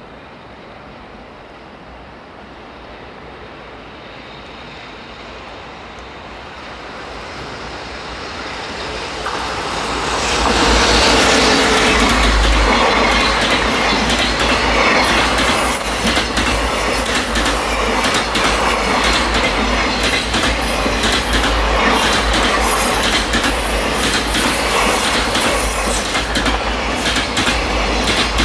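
Freight train approaching, growing louder for about ten seconds, then its wagons rolling past with a steady wheel-on-rail rumble and rapid clicking over the rail joints.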